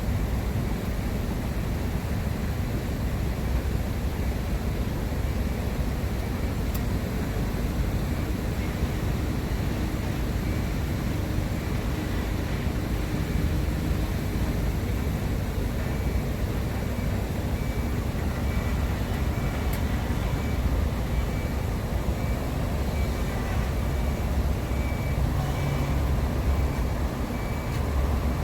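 Steady low rumble of road vehicles, engine and tyre noise, running on without a break.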